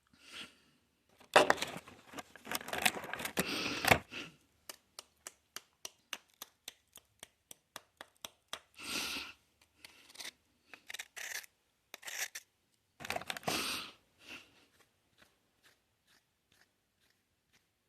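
Cookie packaging being torn open and crinkled, a few seconds of loud crackling. Then comes a quick run of small sharp clicks, about four a second, and after that several shorter rustles of the packaging.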